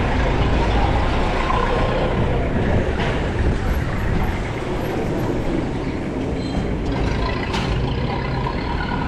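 Street traffic: a steady low rumble of passing motor vehicles, with a sharp click or knock near the end.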